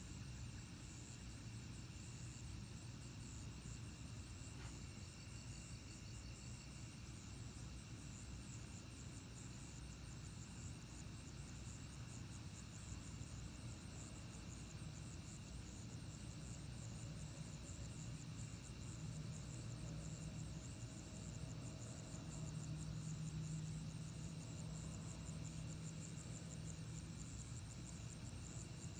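Night-time insect chorus: a steady, faint high-pitched trilling that runs on without change. A low hum swells up in the second half and fades again near the end.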